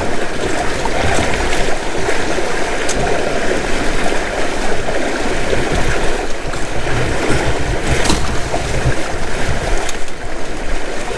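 Water rushing and splashing along the hulls of a small Windrider 17 trimaran sailboat under way in strong wind. Wind buffets the microphone throughout, with a couple of faint knocks.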